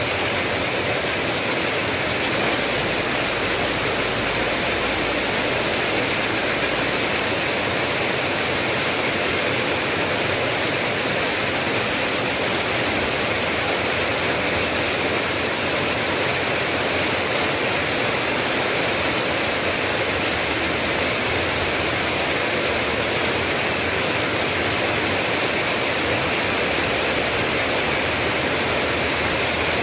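Steady rain falling, an even hiss with no separate drops, thunder or breaks standing out.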